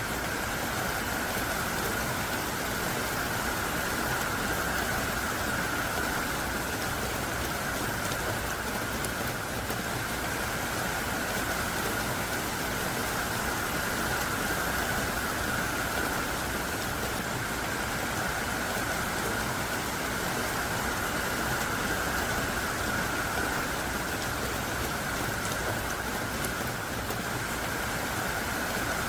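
Heavy rain pouring down steadily, an even, unbroken hiss of a downpour.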